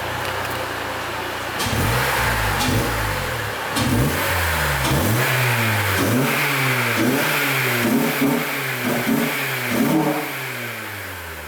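Acura TSX four-cylinder engine idling, then revved in a string of quick blips, about one a second, before the revs fall back toward idle.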